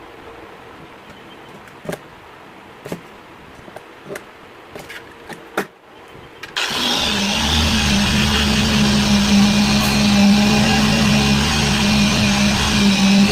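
A few light clicks and knocks of handling, then an electric power tool's motor switches on about halfway through and runs steadily with a loud hum and whirring noise.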